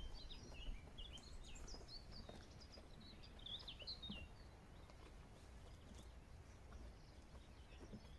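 Faint birdsong: small birds chirping and twittering over a low, steady outdoor background noise, busiest in the first half and thinning out after about four seconds.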